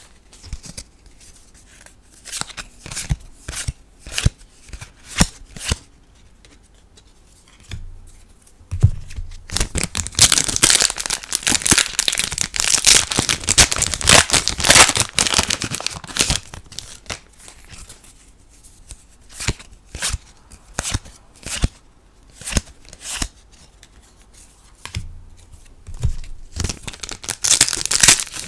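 Foil trading-card booster packs crinkling and tearing open, with a dense stretch of crinkling through the middle. Before and after it come separate light snaps and clicks of cards being handled one by one.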